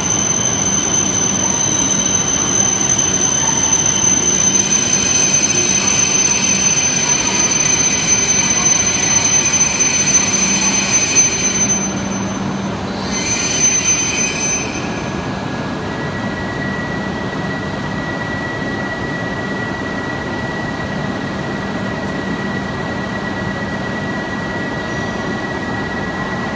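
E7-series Shinkansen pulling into the platform, its wheels and brakes giving a steady high-pitched squeal over a rumble as it slows. The squeal cuts off at the stop about halfway through, leaving a quieter steady hum with a faint whine from the standing train.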